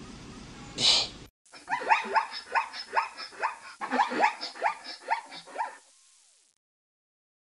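A short hiss about a second in. Then a zebra's barking call: a rapid run of yelping barks, each rising in pitch, about three or four a second for some four seconds.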